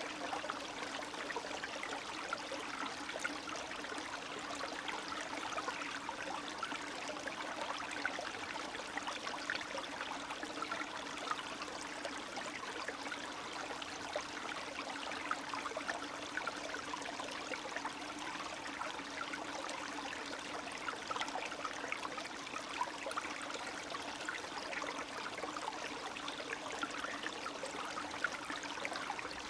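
Spring stream running steadily: a continuous trickling of water with a steady low note underneath.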